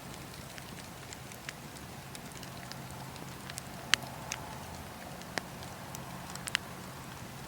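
Wood fire crackling in a fireplace: a steady low hiss of burning with irregular sharp pops, a loud pop about four seconds in and a quick double pop near the end.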